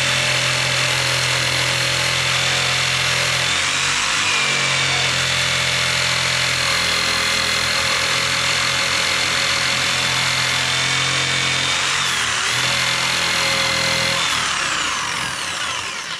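Electric jigsaw cutting through a thick log, its motor running steadily with a high whine and dipping briefly twice. It labours because the log is nearly as thick as the blade is long. Near the end the motor winds down with a falling whine and stops.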